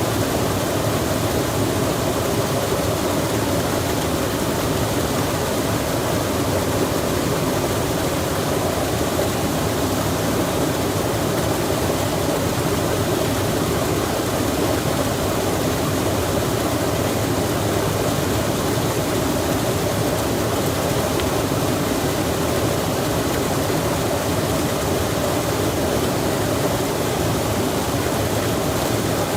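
A stream flowing with rain falling on and around it: a steady, even rush of water with no separate events.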